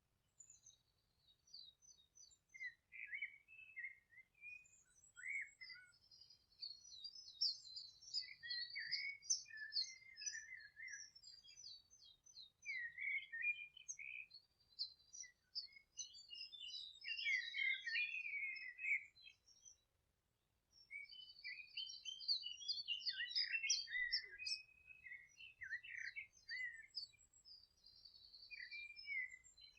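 Several songbirds singing and chirping at once, a mix of quick high trills and lower warbled phrases, with a short pause about two-thirds of the way in.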